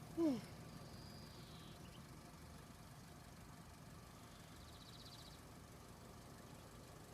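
Quiet rural outdoor ambience: a low steady rumble with faint high bird chirps and a short trill about five seconds in. A single brief, louder falling call sounds right at the start.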